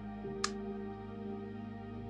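Soft ambient new-age background music of sustained held notes, the chord shifting a quarter second in. A single brief click about half a second in.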